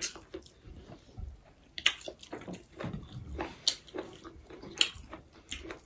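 Close-up eating sounds: a person chewing food, with irregular wet smacks and short sharp clicks.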